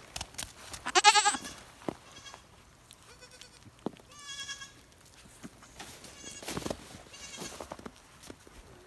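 Goats bleating several times, wavering calls, the loudest about a second in, with a few more through the rest.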